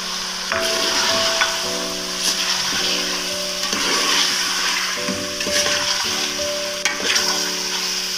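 Beef, onions and spice paste sizzling in hot oil in a metal cooking pot while a steel ladle stirs, with a scrape or knock of the ladle against the pot every second or two. Background music with held notes plays underneath.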